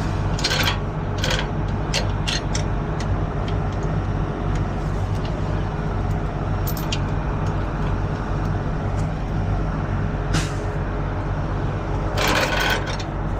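Diesel truck engine idling steadily, with scattered clicks and a couple of short air-like hisses, the longest near the end.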